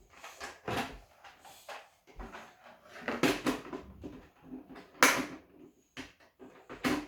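Irregular knocks and clatters from a cardboard box and plastic toy parts being handled, with a sharp clack about five seconds in.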